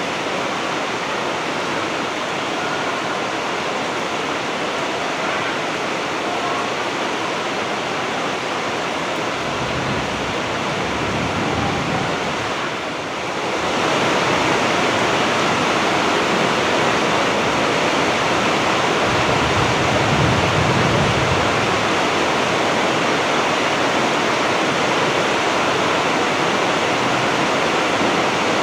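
Heavy rain falling steadily, a dense even hiss. It dips briefly about halfway through, then comes back a little louder.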